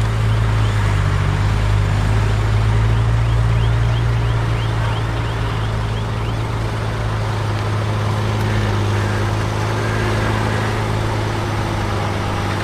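Heavy earthmoving machinery's diesel engine running steadily with a deep, constant hum, and a short run of faint high squeaks a few seconds in.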